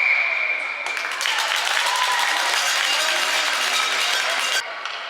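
Hockey spectators clapping and cheering in a run of dense applause that dies down suddenly near the end, with a high shrill tone held for about a second at the start.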